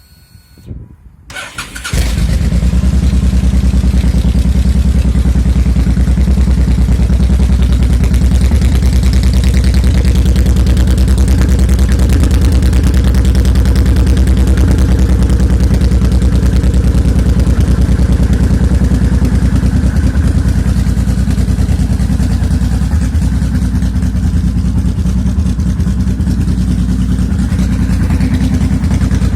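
Honda VTX 1800's big V-twin engine is cranked by the starter, catches about two seconds in, and then idles steadily with an even, low pulsing beat.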